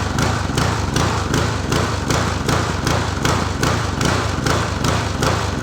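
Small single-cylinder walk-behind mower engine running with a rapid, even pulsing beat.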